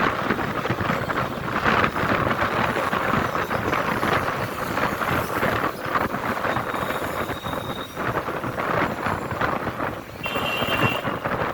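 City traffic noise with wind buffeting a motorcycle rider's microphone. A brief high tone sounds about ten seconds in.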